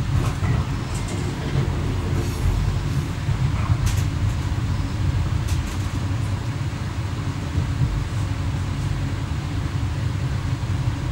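Electric multiple unit running along the line, heard from inside the driver's cab: a steady low rumble, with a few sharp clicks scattered through it.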